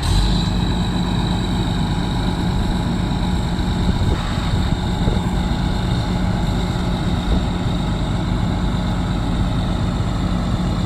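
Fire truck engine idling steadily, a low even hum with a faint high whine over it.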